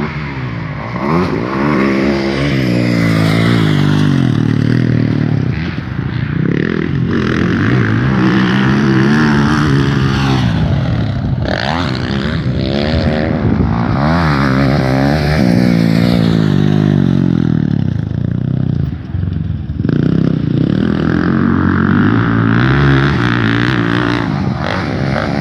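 Motocross motorcycle engines revving hard, their pitch climbing and dropping again and again as the bikes accelerate and shift, with overlapping engine notes.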